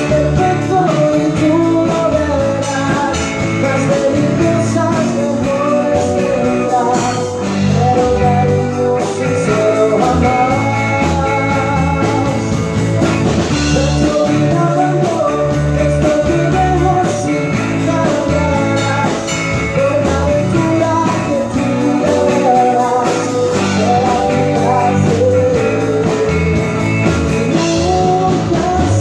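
Live rock band playing a song: a singer's voice over guitar, bass and drum kit, with cymbals ticking in a steady beat.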